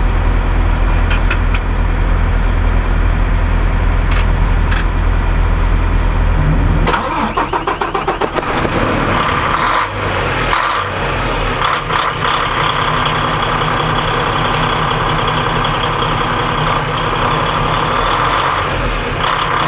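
A truck's engine running, a heavy steady low rumble for about seven seconds, then a quick rattle and a change to a different, steadier running sound.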